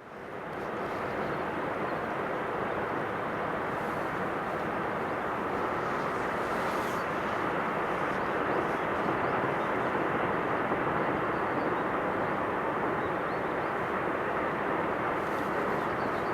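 A train running: a steady rushing rumble that builds slightly and holds.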